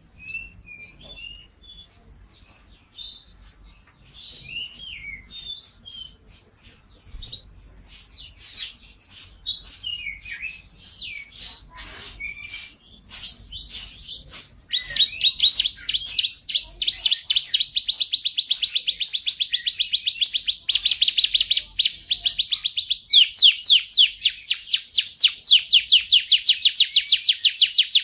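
Domestic canary singing: soft, varied twitters and short whistled notes at first, then about halfway through loud, fast trills of rapidly repeated notes, switching to a new trill every few seconds.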